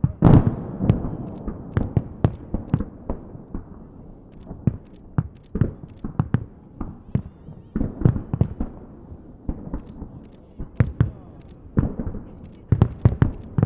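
Festive fireworks salute: shells bursting in a rapid, irregular series of sharp bangs, the loudest about half a second in, trailing off in a rumbling echo.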